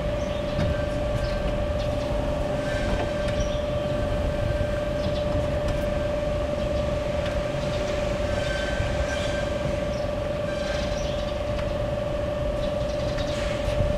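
BT RRE-2-15 electric reach truck running, with a steady high-pitched whine from its electric motors over a low rumble and scattered light clicks and knocks.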